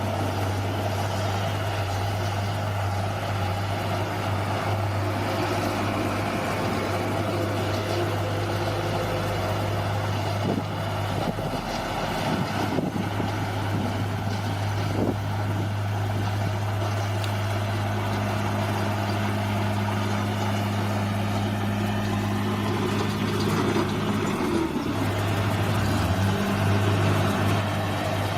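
Bulldozer's diesel engine running steadily, with a steady hum throughout. A second, higher steady tone joins about two-thirds of the way through, and the engine note briefly sags near the end before picking back up.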